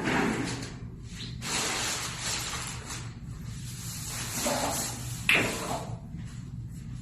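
Scraping and sliding strokes, each a second or so long, with a sharp knock about five seconds in, from cleaning a parrot's cage.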